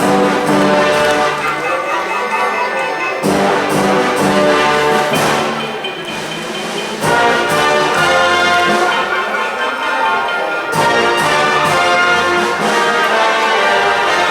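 Orchestral ballet music with brass to the fore, loud and continuous, with new phrases striking in about three, seven and eleven seconds in.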